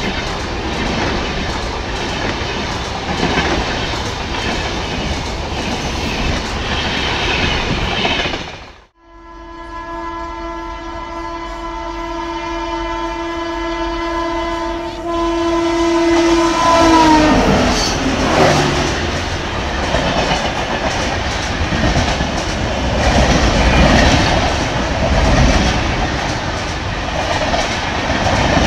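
Shatabdi Express coaches rush past at speed with a rumble and clickety-clack, and then the sound cuts off suddenly. A WAP5 electric locomotive's horn then sounds for about eight seconds in one long, steady chord, growing louder and dropping in pitch as the locomotive passes. Its coaches then rush by with clickety-clack.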